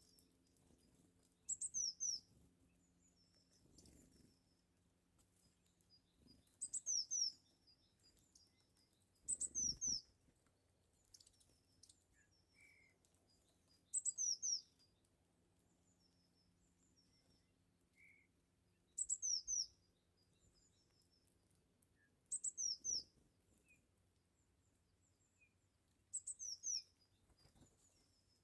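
A bird calling: short, high-pitched chirping phrases, about eight of them, repeated every few seconds.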